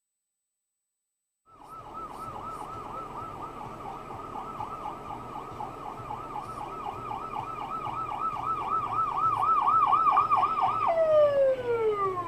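Emergency vehicle siren on a fast yelp, warbling up and down about three times a second and growing louder, then dropping in pitch in one long falling glide near the end. A low vehicle rumble runs underneath.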